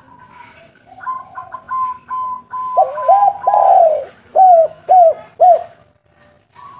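Spotted dove cooing: a run of short, soft higher notes, then a loud, long coo followed by three short, arched coos.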